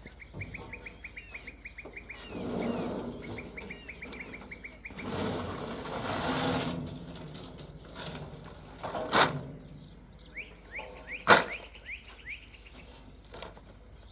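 Small bird chirping in quick trills of short rising notes, about ten a second, heard three times. Two sharp knocks fall in the second half, the later one the loudest sound, and two louder noisy swells come earlier.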